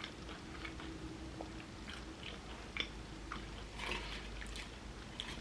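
Soft, wet chewing and mouth clicks of someone eating a chickpea "tuna" salad sandwich close to the microphone, in scattered small smacks.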